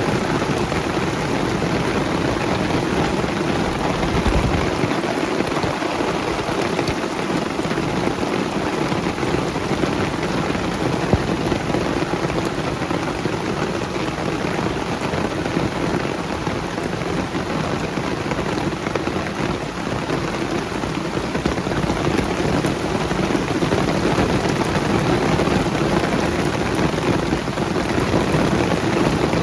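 Steady rain falling on banana leaves, with a low rumble underneath for the first four or five seconds.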